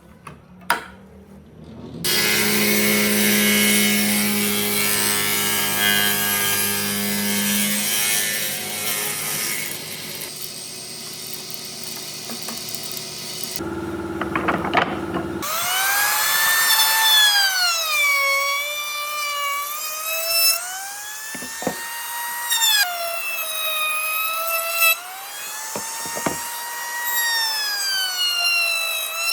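A power tool working wood: a loud, dense cutting noise with a steady buzz. From about halfway through, its whine swoops up and down in pitch again and again.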